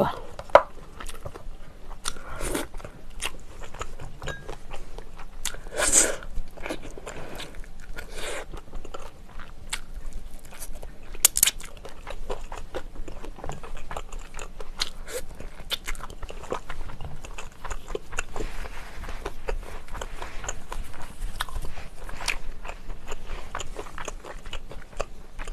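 Close-miked eating: a person biting and chewing with crunching and small clicks, louder crunches coming every few seconds.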